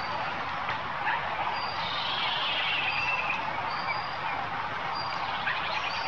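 Faint, high bird chirps and short calls repeating every second or so, with a brief trill about two seconds in, over a steady outdoor hiss.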